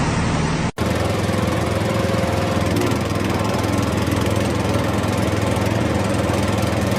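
An engine running steadily at a constant speed, with a brief break under a second in.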